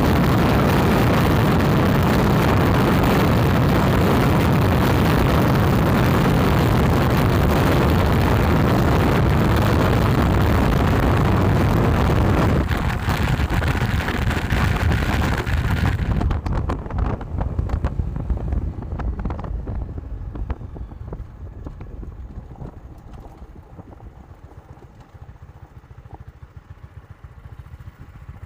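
Very strong wind, about 135 km/h, blasting the microphone in a dense rushing noise. It drops sharply about 13 seconds in and again about 16 seconds in, then fades away.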